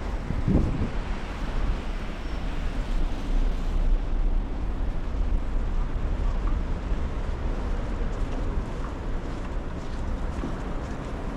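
Blizzard wind buffeting the microphone: a steady low rumble that gusts up and down.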